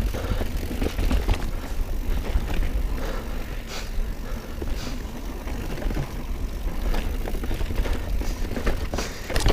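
Mountain bike descending a dirt trail: wind buffets the microphone with a steady low rumble while the tyres run over the ground and the bike rattles and knocks over bumps.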